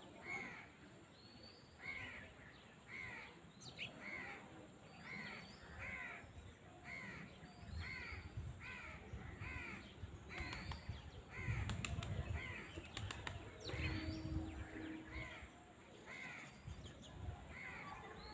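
A crow cawing over and over, about one caw a second. There is a low rumble through the middle stretch.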